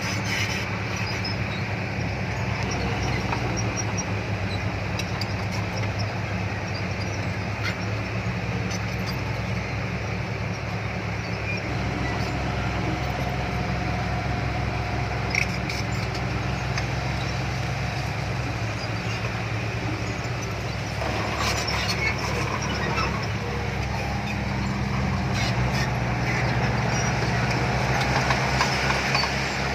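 Heavy diesel engine of earthmoving machinery running steadily, with a few short metallic clanks. About 25 seconds in it grows louder and higher in pitch.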